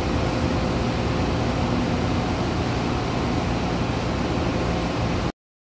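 Steady rumbling hum of trains standing at a station platform, with a low engine drone under a rushing noise; it cuts off abruptly about five seconds in.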